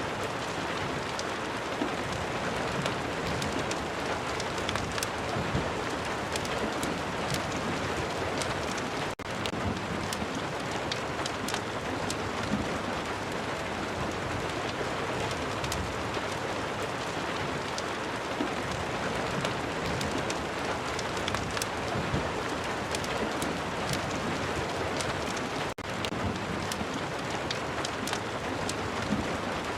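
Steady heavy rain mixed with fireplace crackling, with scattered sharp little pops over a dense hiss. The sound drops out for an instant twice.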